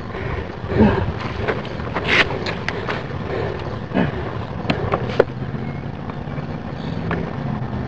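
A steady engine hum, clearest in the second half, with several sharp clicks and knocks over it.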